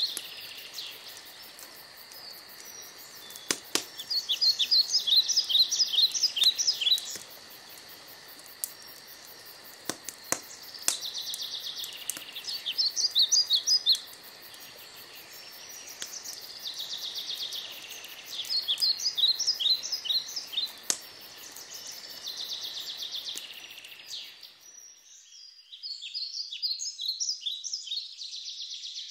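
A songbird singing short, quick trilling phrases of high notes, repeated every few seconds, over faint outdoor background noise, with a few sharp clicks.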